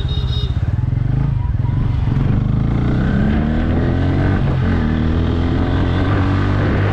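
Single-cylinder motorcycle engine pulling hard through the gears: its pitch climbs, drops at a gear change about four and a half seconds in, then climbs again.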